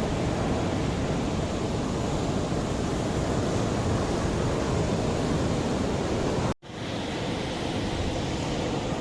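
Mediterranean sea waves washing steadily on the shore, a continuous hiss of surf. About two-thirds of the way through the sound cuts out for an instant and comes back slightly quieter.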